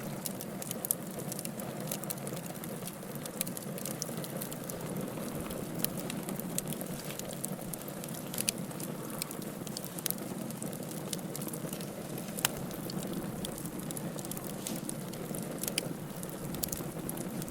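Wood fire burning in a fireplace: a steady hiss and rumble of the flames with scattered sharp crackles and pops, a loud one about twelve seconds in.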